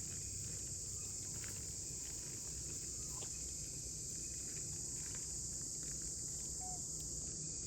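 Steady high-pitched chorus of insects, crickets or cicadas, over a low background rumble, with a faint short chirp near the end.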